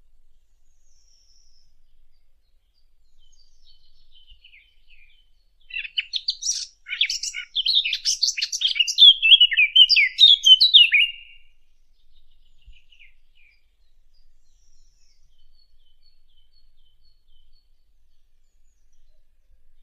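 Song of the bird called the fig bird (ʿusfur at-tin): one fast, varied warbling phrase of about five seconds, starting about six seconds in, with faint scattered chirps before and after.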